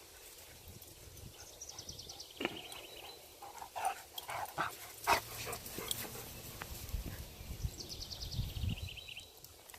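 Puppies moving about, with a cluster of short clicks and small sounds in the middle. A high, quick run of notes falling in pitch comes twice, about a second and a half in and again near the end.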